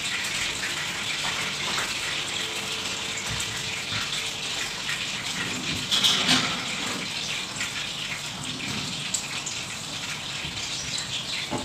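Food frying in oil in a pan on a gas hob, a steady sizzling hiss, with a brief clatter of cookware about six seconds in.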